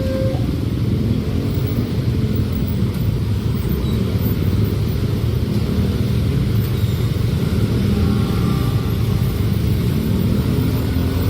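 Train passing close by at a level crossing, a loud steady low rumble.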